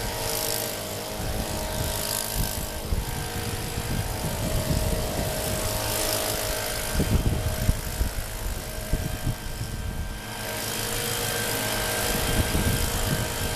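Electric radio-controlled trucks running, a steady motor whine over a rough, rumbling background.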